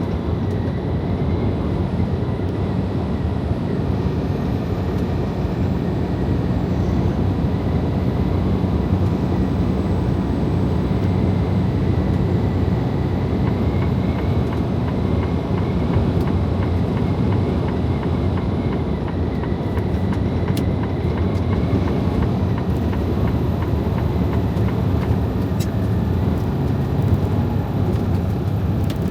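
Freightliner Cascadia semi-truck cruising on the highway, heard from inside the cab: a steady low engine drone with tyre and road noise, level throughout.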